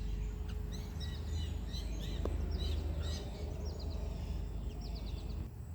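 Songbirds chirping, with many short, quick calls overlapping, over a steady low rumble.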